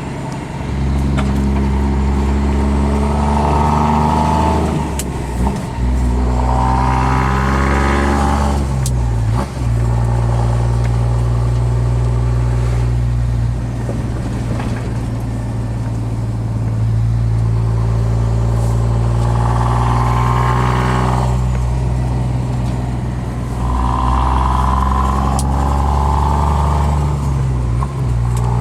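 Scania R420 truck engine through a custom open loud-pipes exhaust, pulling hard several times with the pitch rising each time. There are short breaks about 5, 9 and 28 seconds in as the manual gearbox is shifted, and a steady low drone in the middle.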